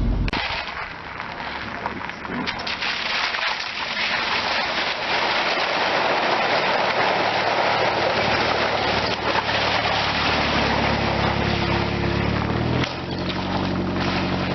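Car driving through a large puddle: water sprays and hisses under the tyres and body for about twelve seconds, then the engine's low running hum comes back near the end.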